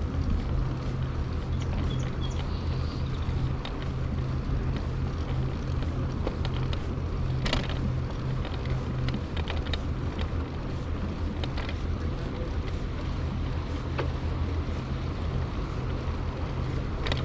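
Steady low rumble of a moving bicycle ride: wind buffeting the microphone over tyre and road noise, with a few faint clicks.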